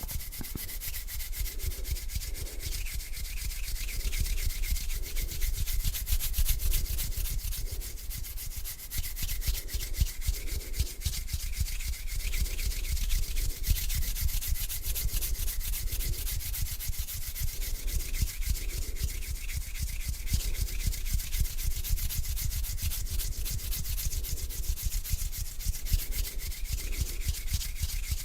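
Hands rubbing together slowly and close up: a continuous dry, hissing friction sound that swells with each back-and-forth stroke, about once a second.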